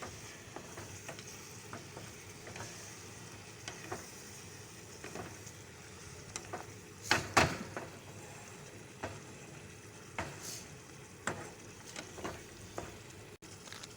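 Chicken frying in ghee with green masala, sizzling steadily in the pan while a utensil stirs it, scraping and clicking against the pan at irregular moments. Two loud knocks come about seven seconds in.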